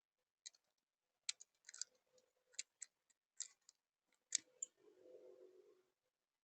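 Faint, irregular sharp clicks and taps, about a dozen of them, uneven in spacing, then a brief low muffled sound about five seconds in.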